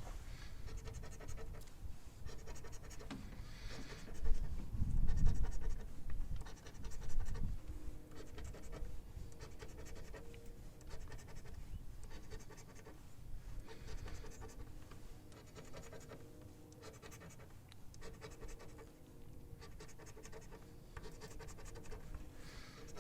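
Scratching the coating off a scratch-off lottery ticket: repeated light rasping strokes, with a few dull bumps about four to seven seconds in.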